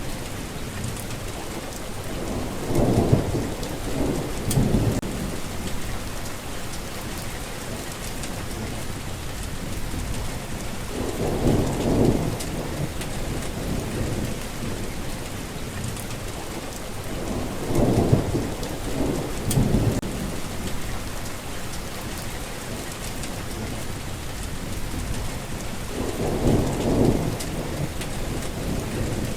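Steady rain pattering, with low rolls of thunder rumbling in four times.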